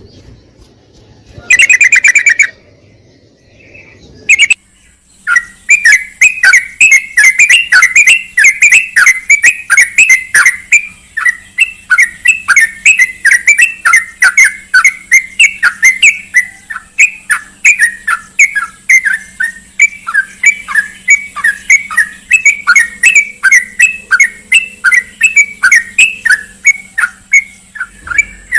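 Yellow-vented bulbul (trucukan) calling in a long rapid run of short sharp chirps, several a second. The run starts about five seconds in, after one brief dense burst of notes about two seconds in.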